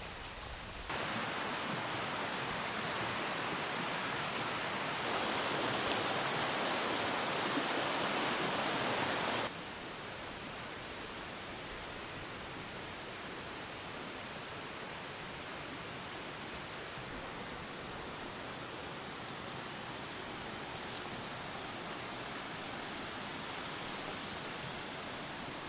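Steady rushing outdoor ambience with no distinct events; it jumps louder about a second in and drops back abruptly at about nine and a half seconds.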